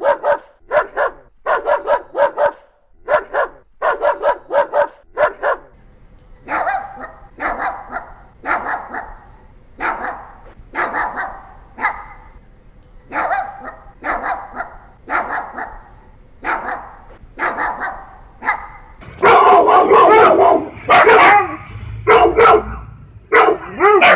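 Dogs barking over and over, in short bursts about once a second. The barking changes character about a quarter of the way in, then turns louder and more continuous near the end.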